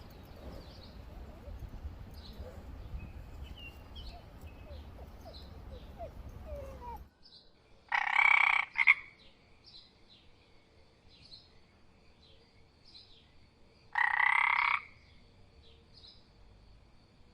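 An animal's loud call, heard twice about six seconds apart, each under a second, over faint high chirping. Before it, a noisy background with scattered chirps cuts off about seven seconds in.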